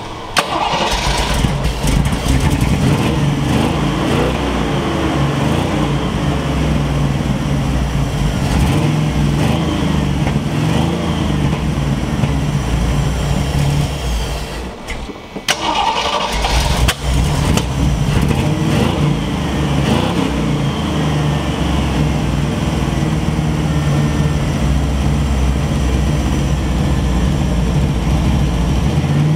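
A 1979 Jeep CJ7's 304 AMC V8 runs steadily. About halfway through it falters for a couple of seconds, then picks back up. It is a carburetor problem: the engine won't stay running unless it is held on the gas.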